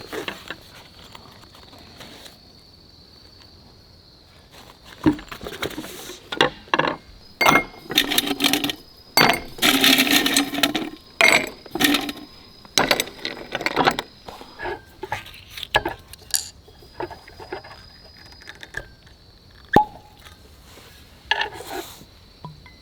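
Camp cookware and glassware clinking and knocking as they are handled: a busy run of short clinks and knocks in the middle, thinning to occasional ones near the end.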